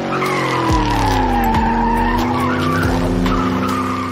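Dubbed car engine sound with tyre squeal: the engine note falls over the first second or so, then holds steady under a wavering high squeal.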